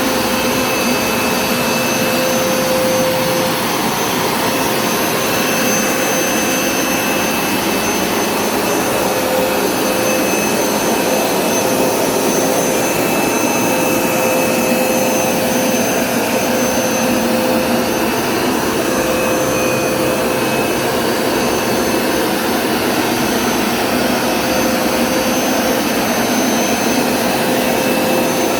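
Hoover Smartwash Pet Complete carpet cleaner running steadily on a rinse pass: a loud, even whir of the suction motor with a whine that fades and returns as it is pushed back and forth, pulling sudsy water back up out of the carpet.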